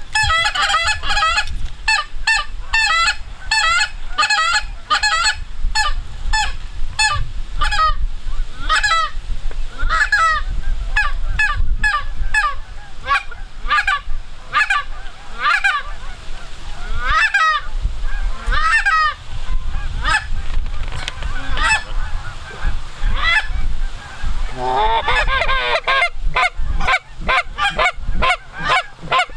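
Canada goose honking and clucking, from a circling flock and hunters' goose calls: short honks in a near-constant run of about two a second. About 25 seconds in, a denser stretch of many overlapping calls. Low wind rumble underneath.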